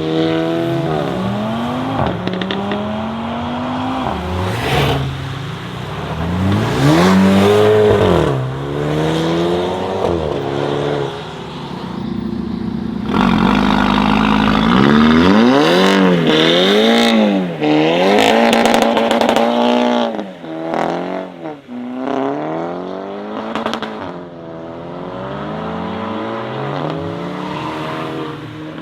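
Modified sports car engines revving hard in repeated blips, pitch climbing and falling back, with a longer held high-rev run about halfway through and a few sharp cracks from the exhaust.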